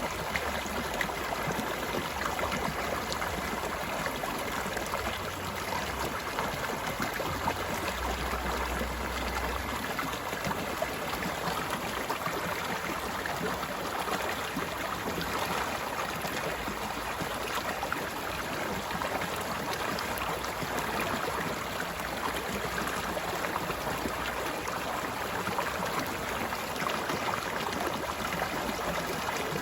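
A stream's water flowing and babbling steadily over rocks.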